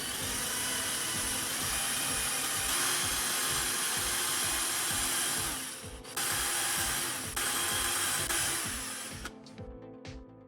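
A power tool running with a loud, steady hiss. It cuts out for a moment about six seconds in, starts again, and stops about nine seconds in. Background music with a steady beat plays underneath.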